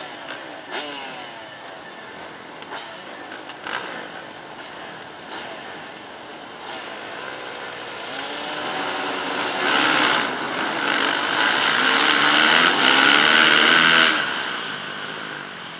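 Several motocross bike engines revving, the pitch of each rising and falling, with a few sharp knocks in the first seven seconds. About eight seconds in, the engines build to hard revving all together, loudest for several seconds before easing off near the end.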